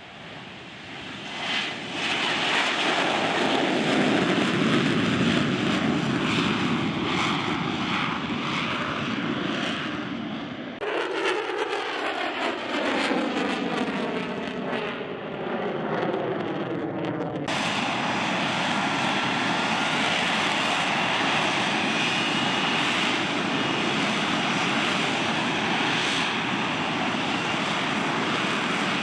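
F-35B Lightning II jet engine noise across several edited shots. It builds to a loud rush over the first two seconds. About eleven seconds in, a cut brings the jet passing with a pitch that sweeps downward. From about seventeen seconds on it is a steady loud rush with faint high whistles.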